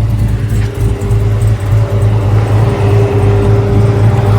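Chevrolet LS3 6.2-litre V8 in a 1982 Impala running steadily at a constant speed, with a faint steady whine above it from about half a second in.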